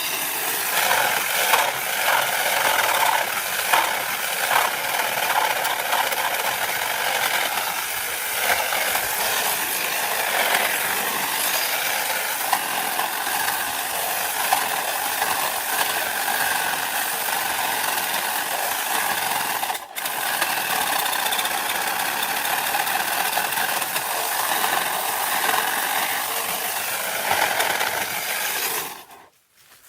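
A small power tool's motor running steadily, used for tree trimming, with a momentary break about twenty seconds in. It starts and stops abruptly.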